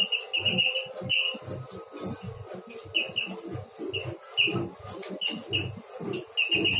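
Male lovebird giving short, high, sharp chirps in quick clusters: several near the start, more around the middle, and a dense run near the end. Low irregular thumps run beneath them.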